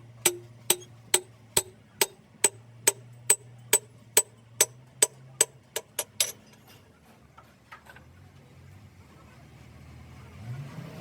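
Hammer striking metal about two times a second, each blow ringing briefly. The blows come quicker and stop about six seconds in, leaving a low hum.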